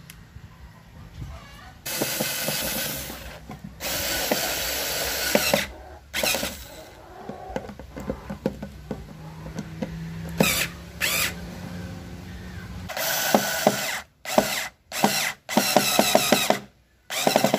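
Electric drill running in bursts: two runs of about a second and a half, a few short blips, then a rapid string of short bursts near the end.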